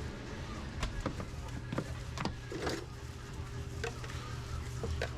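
Restaurant kitchen noise: a steady low hum with scattered short clicks and knocks as food, containers and utensils are handled, and one duller thud about halfway through.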